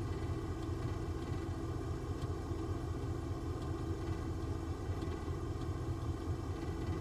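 A motor running steadily: a low rumble with a constant hum, with no change in speed.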